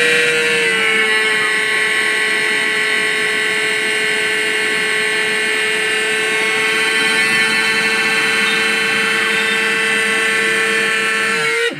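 Mixer grinder motor running at speed with a loud, steady high-pitched whine, then switched off near the end so the whine dies away. This is the excess noise that the owner says a little sewing-machine oil will silence.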